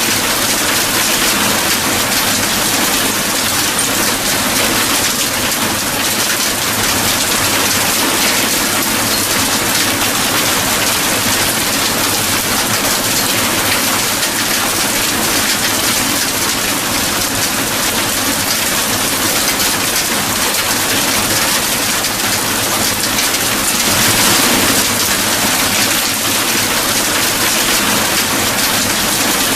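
Steady heavy rain, a dense even hiss of drops on surfaces, swelling slightly a little after two-thirds of the way through.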